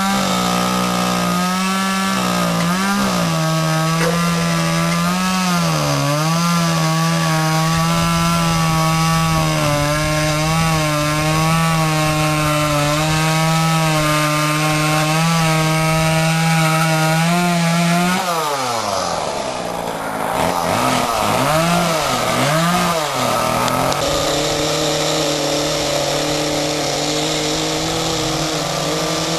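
Chainsaw carving into a Western red cedar log, running at high speed with its pitch dipping and recovering as it bites into the wood. About 18 seconds in the pitch drops, revs up and down a few times, then settles into a steady, lower run.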